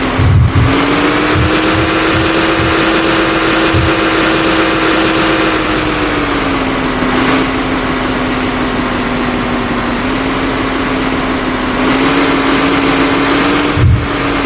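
A machine's engine running steadily with a pitched hum that rises slightly about half a second in, drops around six to seven seconds in and comes back up near the end, with a few low thumps near the start.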